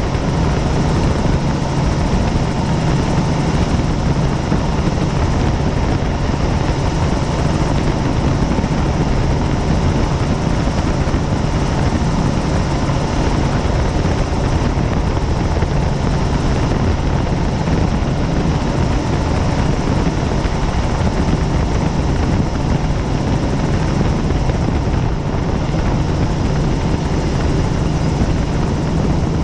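Helicopter in steady flight: its rotor and engine make a loud, even drone with a strong low hum.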